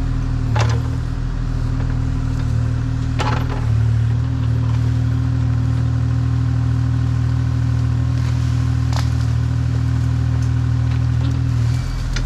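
An engine running steadily at a low, even speed, with a few sharp cracks of wood snapping, about half a second in, around three seconds in and near nine seconds.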